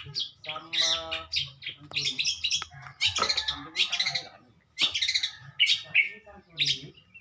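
Long-tailed shrike (pentet) singing busily: a quick run of short, high, scratchy notes in clusters of a few per second, with a brief pause just before the fifth second.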